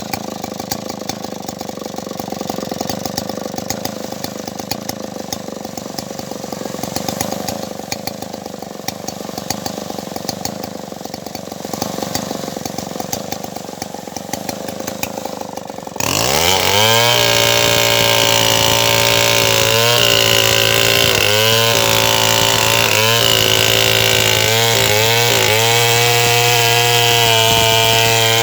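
Stihl 070 two-stroke chainsaw running at low speed with a rattle, then throttled up to full speed a little past halfway. At full speed its pitch sags and recovers again and again as it takes load in the cut through sengon wood.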